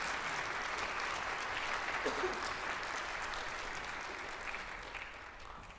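Audience applauding, the clapping dying away toward the end, with a brief voice calling out about two seconds in.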